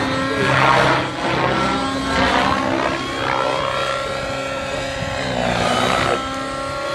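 Nitro-powered Synergy N9 RC helicopter in flight: the glow engine's steady whine under repeated swelling whooshes from the main rotor blades as it manoeuvres.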